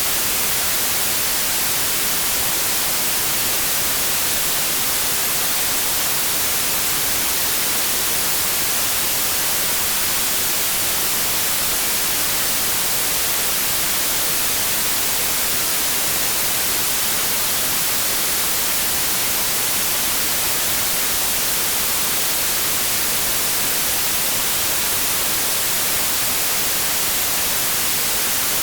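Synthetic white noise: an even, unchanging hiss with no tones or changes.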